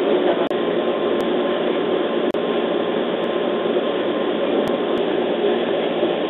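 JR East 211 series electric train's running noise heard from inside the carriage: a steady rumble of wheels and motors as the train rolls into a station, with two very brief cuts in the sound early on.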